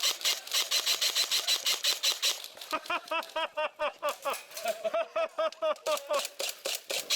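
Airsoft guns firing rapid strings of shots, about six or seven sharp cracks a second. From a few seconds in, each shot comes with a short rising-and-falling whine.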